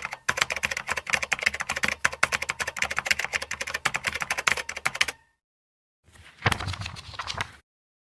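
Rapid typing on a computer keyboard, a dense run of key clicks that stops abruptly about five seconds in. After a short silence comes a separate sound effect about a second and a half long, noisy with a heavy low rumble.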